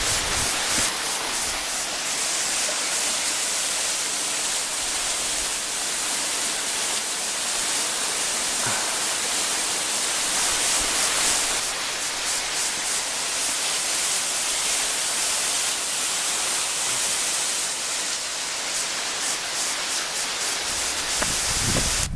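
Waterfall water rushing in a steady, unbroken hiss that cuts off abruptly at the end.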